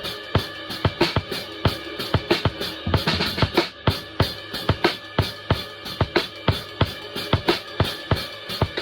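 Drum kit played in a steady groove, with bass drum and snare strikes several times a second. A busier run of hits comes about three seconds in.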